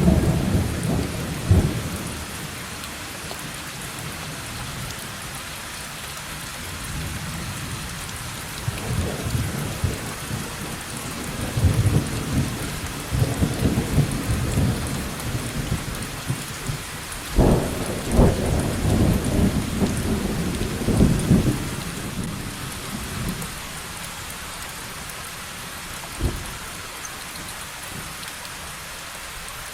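Steady heavy rain with rolling thunder: a low rumble dies away in the first couple of seconds, thunder builds again from about nine seconds in and rolls loudest around the middle, then a single short clap comes near the end.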